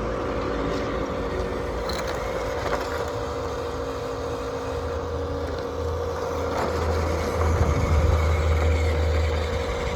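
Radio-controlled toy construction vehicle running: a steady mechanical hum with a held tone, its low rumble growing louder about halfway through and easing off near the end.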